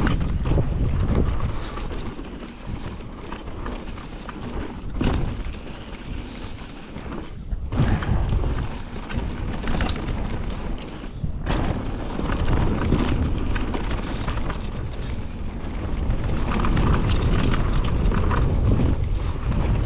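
Wind buffeting a camera microphone during a fast downhill mountain-bike ride, a loud uneven rumble with scattered knocks and rattles from the bike over rough trail.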